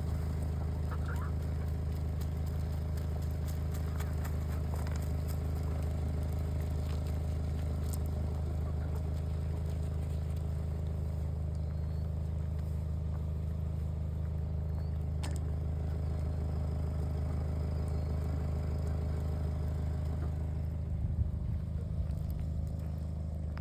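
A motor runs steadily, an even low drone that holds unchanged throughout, with a few faint bird calls over it.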